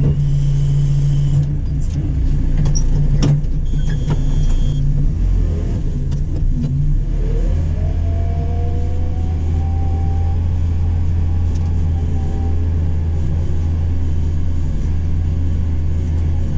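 JCB 4CX backhoe loader's diesel engine running while the hydraulics work, with a few sharp clicks and knocks in the first five seconds. About seven seconds in, the engine settles to a lower steady pitch, with a faint rising whine above it.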